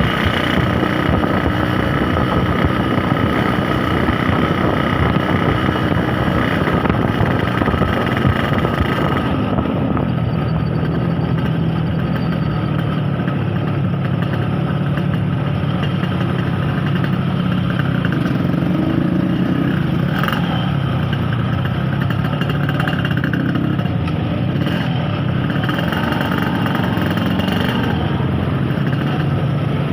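Yamaha RX-King 135 cc single-cylinder two-stroke motorcycle engine running steadily while being ridden. About ten seconds in, the high hiss drops away and a steady low engine tone comes to the front.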